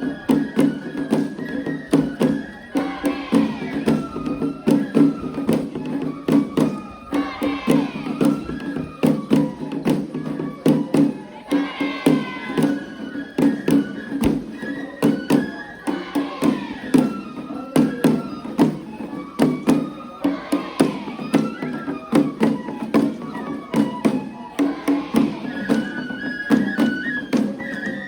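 Japanese festival music (matsuri-bayashi): a high flute melody in held, stepping notes over rapid, continuous percussion strikes.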